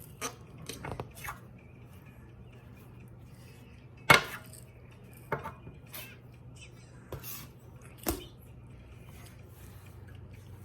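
Kitchen bowls and containers knocking and clinking on a counter while dough is divided into portions: a handful of separate knocks, the loudest about four seconds in.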